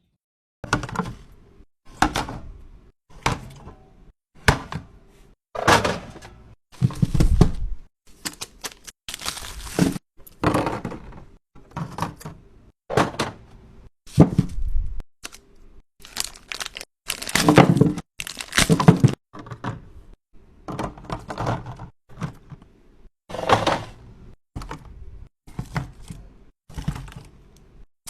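Food containers and packaging being handled and set down while restocking a refrigerator: a quick run of thunks and clatters of plastic and glass on shelves, mixed with rustling of wrappers.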